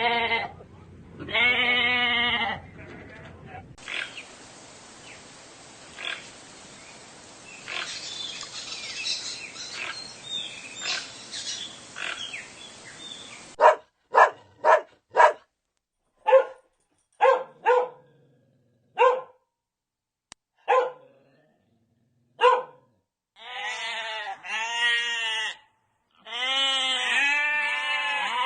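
A run of animal calls: two long pitched calls at the start, then about ten seconds of noisy rustling with scattered clicks, then a string of short clipped calls with gaps between them, and near the end several longer wavering calls.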